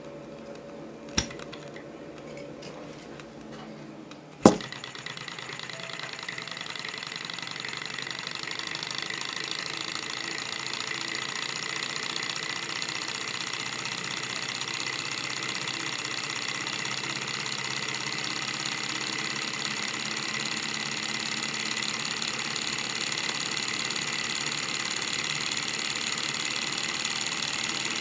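Small alpha-type Stirling engine running with a fast, steady mechanical clatter. A sharp click sounds about four seconds in, after which the running grows louder over several seconds and then holds steady as the engine comes up to speed.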